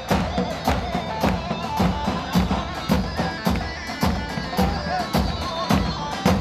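Instrumental halay dance music from a live wedding band: a keyboard melody over a steady, even drum beat, with no singing.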